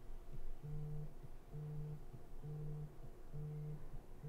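An iPhone lying on a surface, vibrating with an incoming call: its motor buzzes in short, even pulses, a little under one a second.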